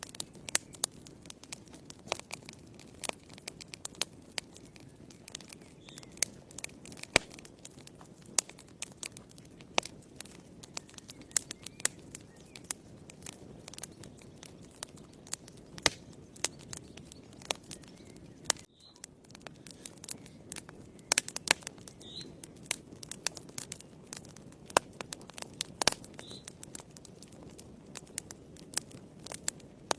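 Wood fire in a fireplace crackling: frequent irregular sharp pops and snaps over a soft, steady low rush of flame.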